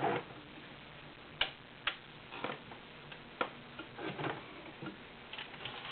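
Sewing machine stopped, with scattered light clicks and taps at irregular intervals from hands working the machine and the fabric sample.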